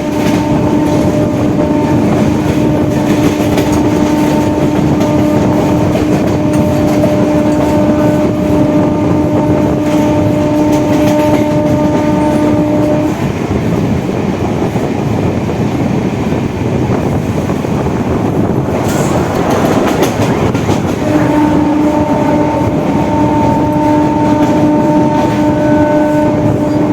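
Suburban electric local train running at speed with rail clatter, its horn sounding one long steady blast for about 13 seconds. The horn sounds again from about 21 seconds in.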